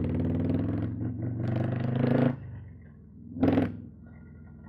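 Harley-Davidson bagger's V-twin engine running under throttle, then dropping off a little past halfway, with one short blip of revs about a second later.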